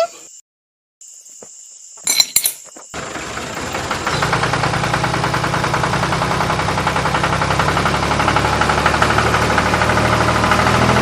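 A brief metallic clink about two seconds in, then the small motor of a DIY mini tractor starts and runs steadily with a fast, even rattle, growing slowly louder.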